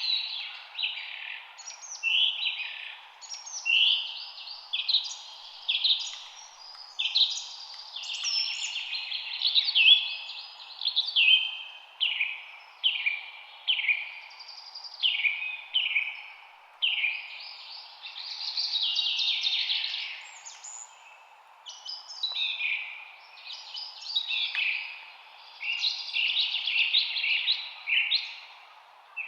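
Songbirds singing: a dense, continuous run of short, high chirping phrases about one a second, several birds overlapping, over a steady faint hiss.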